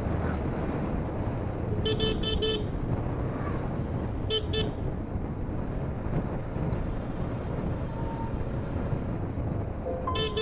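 Steady road traffic rumble with a vehicle horn tooting in short beeps: three quick toots about two seconds in, two more a couple of seconds later, and another burst near the end.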